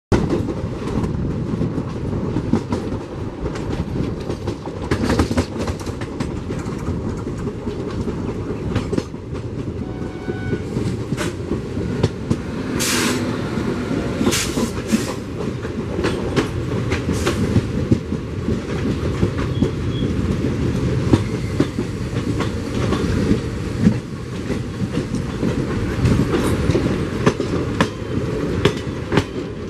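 Passenger train running at speed, heard from an open coach door: a steady rumble of wheels on rail with clickety-clack over rail joints and many sharp clanks throughout.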